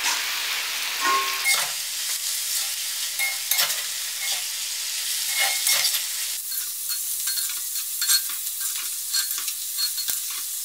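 Shelled clam meat frying on high flame in a cast-iron kadai, sizzling steadily while a metal slotted spatula stirs it, scraping and knocking against the iron pan several times. About six seconds in, the sizzle thins to a lighter crackle.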